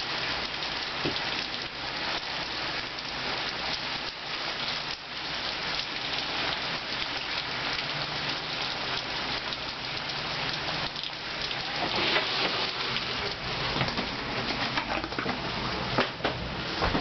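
Rain falling steadily in a thunderstorm: a continuous hiss of rain with many small drop impacts, and a few louder hits in the second half.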